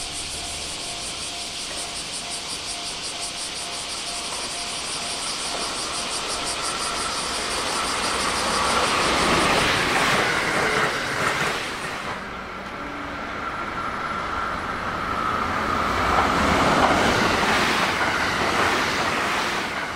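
Trains running through a station at high speed: a rushing noise of wheels and air builds to a peak about ten seconds in, drops briefly, then builds to a second peak near the end. A fast, even high pulsing and a repeating tone are heard in the first few seconds.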